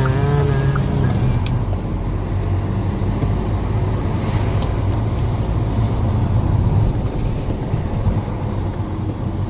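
Renault Grand Scénic's diesel engine running steadily while the car is driven, with road noise.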